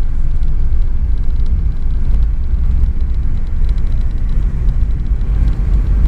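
Steady low rumble of cabin noise inside a Boeing 717-200 airliner: its Rolls-Royce BR715 engines and the airflow around it.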